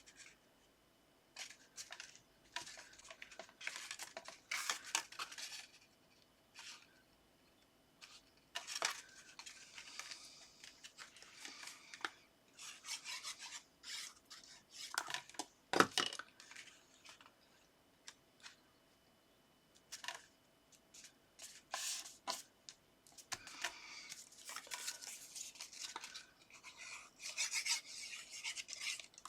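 Hands handling card stock: intermittent rustling, rubbing and scraping as paper strips are positioned and pressed down onto a card base, with one sharp knock about 16 seconds in.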